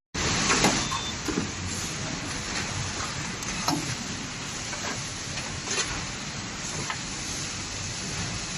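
Factory-floor noise of a washing machine assembly line: a steady machinery rumble with scattered knocks and clanks every second or two.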